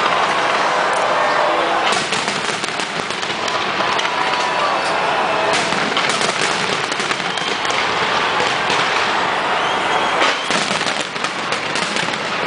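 Fireworks display: a continuous barrage of bangs and crackling bursts going off in quick succession throughout.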